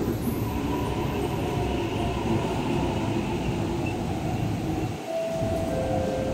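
East Rail Line electric multiple-unit train running alongside the platform: a steady rumble of wheels and running gear. Near the end a faint whine steps down in pitch.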